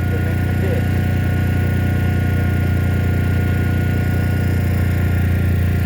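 A machine runs steadily with a constant low drone, with a faint high steady tone above it.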